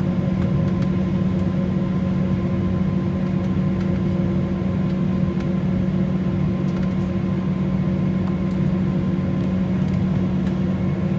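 Steady low-pitched hum with fainter higher tones above it, over a constant rush of noise, heard inside the cabin of an Embraer E190 airliner on the ground after landing.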